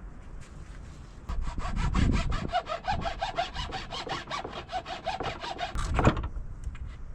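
Hand saw cutting through wood in quick, even strokes. It starts about a second in and stops after a louder final stroke near the end.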